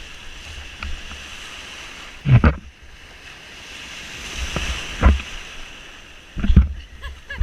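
Ocean surf washing steadily, with three loud splashes about two, five and six and a half seconds in. Wind rumbles on the microphone throughout.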